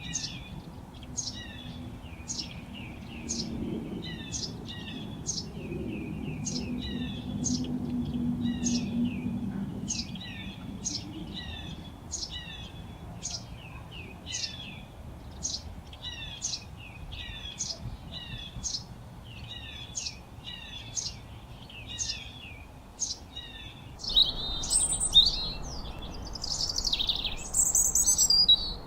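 Birds chirping: one bird repeats a short, high chirp that slides down in pitch, a little more than once a second. About 24 seconds in, this gives way to louder, busier twittering of high chirps.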